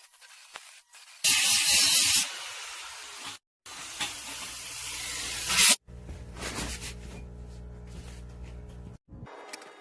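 Electric welding arc hissing and crackling in short bursts, with abrupt cuts between them. After the second burst comes a steady low machine hum.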